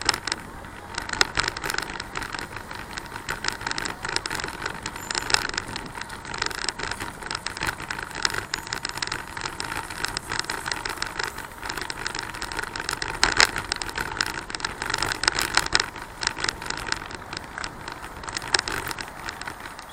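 Bicycle rattling and clattering while being ridden, a continuous run of irregular clicks and knocks.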